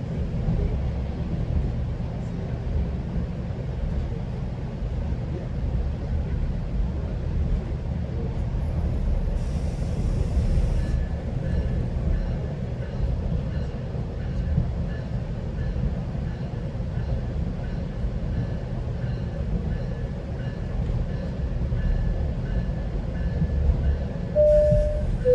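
Steady low rumble of a GO Transit train rolling along the track, heard from inside the passenger car, with a short hiss about ten seconds in. Near the end a two-note falling chime sounds, the tone that comes before the station arrival announcement.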